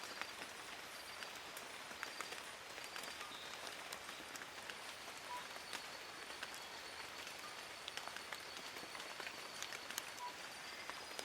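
Steady forest rain: an even hiss of rainfall with many separate drops ticking and pattering on leaves.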